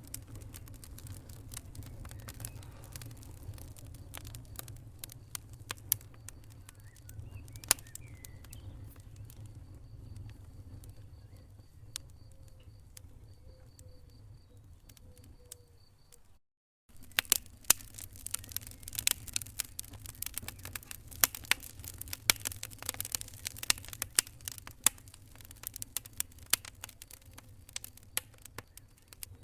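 Wood fire in a fireplace crackling and popping over a steady low rumble. The sound drops out for about half a second just past the middle, then the crackles come thicker and sharper.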